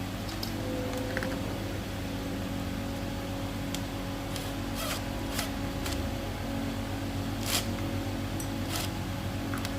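Steady low hum with scattered light clicks and taps, as of small parts being handled and fitted during a repair.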